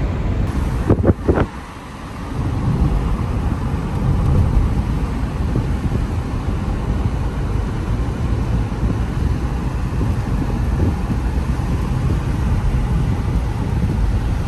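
Steady low rumbling noise, with two or three sharp knocks about a second in.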